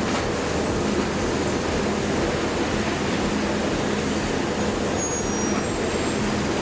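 A heavy engine running steadily under a broad rushing noise, with a low steady hum.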